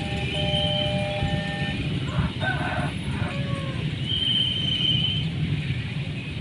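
Steady low rumble of a train, with a short horn-like call about two seconds in.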